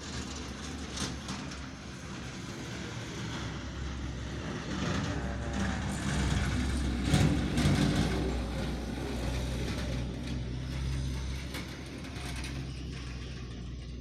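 A vehicle driving past, its engine drone and rattle building to a peak about seven seconds in and then fading.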